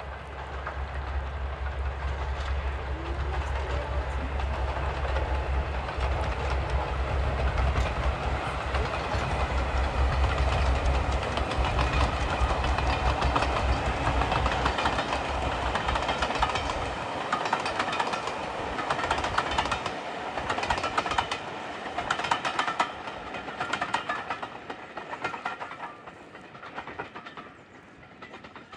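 A heritage mainline diesel locomotive passes hauling its train. A deep, steady engine throb dominates for roughly the first half-minute's first part, then drops away. The coaches follow with a rhythmic clickety-clack of wheels over rail joints, which fades near the end.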